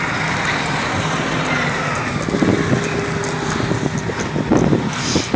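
Road traffic on a snowy city street: vehicles running and passing under a steady wash of noise, with a steady tone held for about a second and a half midway.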